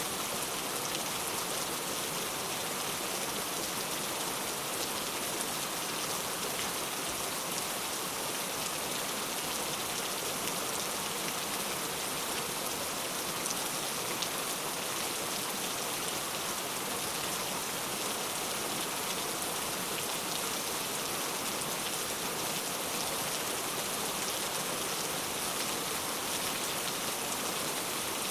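Heavy rain falling steadily, a dense even hiss of drops on surfaces with no let-up or thunder.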